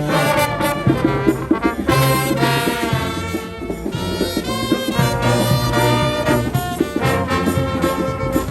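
Brass band playing a lively tune, trumpets and trombones over a quick, steady drum beat.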